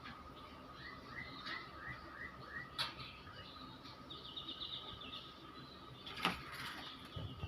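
White-rumped shama calling: a quick run of about six short repeated chirps, then a fast, higher trill. Two sharp clicks or knocks stand out, the louder one about six seconds in.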